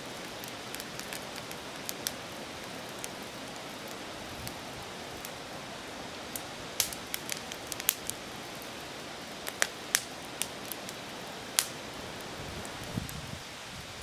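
Wood campfire burning, a steady hiss with irregular sharp crackles and pops, most of the louder pops in the second half.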